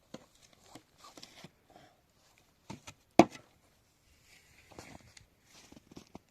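Scattered light knocks and clicks of things being handled, with one sharp knock about three seconds in.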